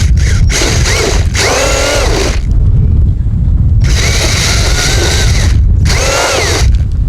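Electric motor of a radio-controlled off-road car whining in three bursts of throttle, its pitch rising and falling, over a steady low rumble.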